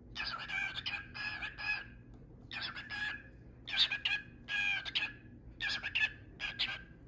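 A bird calling in short repeated bursts, several calls bunched together in quick clusters with brief pauses between.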